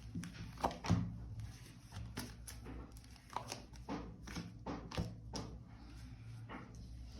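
Tarot cards being handled and laid on a table: a scattered series of soft clicks and taps, the loudest about a second in.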